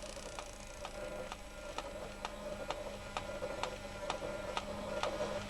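Wind-up toy dinosaur walking: its clockwork mechanism ticks evenly, about three clicks a second, over a low steady hum.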